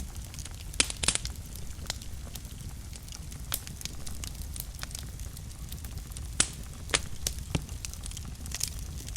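Wood fire burning in a fireplace: a steady low rumble of flames with irregular sharp crackles and pops, the loudest a little under a second in, just after a second, and twice around six to seven seconds in.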